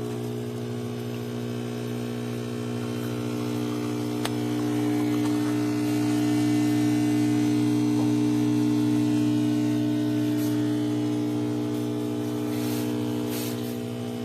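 Neretva 15-bar espresso machine's pump running with a steady buzzing hum, getting somewhat louder in the middle.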